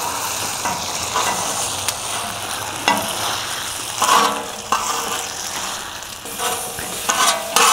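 Stir fry sizzling in a hot cast-iron wok while a utensil stirs and scrapes it against the metal, with a few sharp clicks and knocks, as the food is lifted out to plate.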